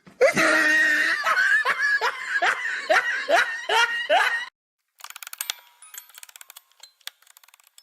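A person laughing in a quick run of repeated pulses, cutting off suddenly about four and a half seconds in; faint clicking and tinkling follow.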